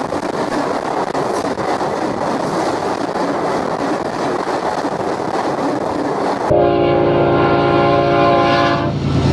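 Train rolling past with a steady rushing noise of wheels on rail. About six and a half seconds in, the sound cuts abruptly to a train horn sounding a chord for about two and a half seconds over a low engine hum.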